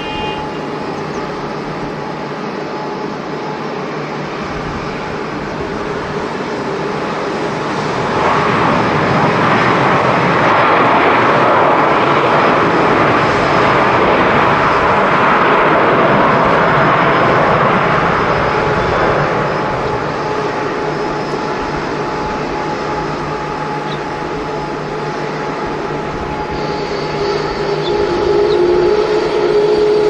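Jet airliner engines: a steady whine under a rushing noise that swells about eight seconds in, holds for about ten seconds, then eases off.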